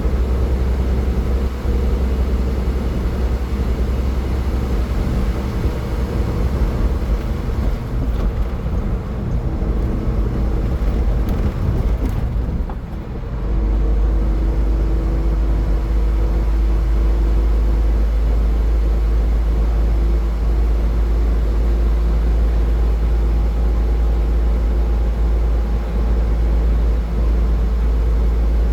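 Car driving at highway speed: steady low road and tyre rumble with an engine hum. About 13 seconds in the rumble briefly drops away, then returns.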